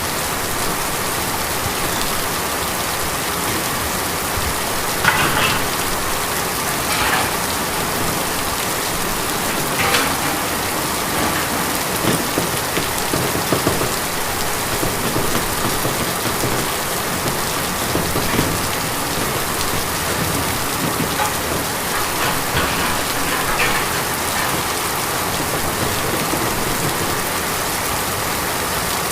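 Steady rain falling on a tin roof: an even hiss with scattered louder drops striking the metal, a few of them standing out around five, seven and ten seconds in and again past twenty seconds.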